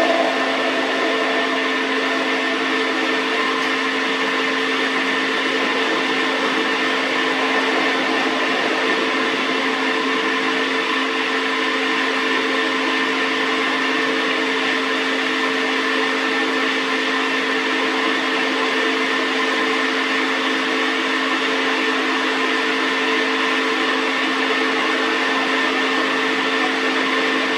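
Metal lathe running steadily, a constant motor and gear whine of several steady tones over an even hiss.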